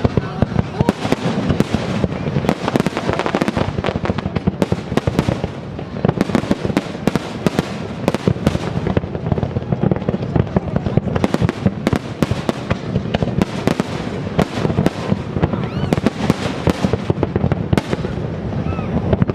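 Fireworks display going off nonstop: a rapid, dense run of bangs and crackles with no pause.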